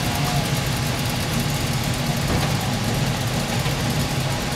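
Engines of several classic Ford Mustangs idling together in a steady low rumble.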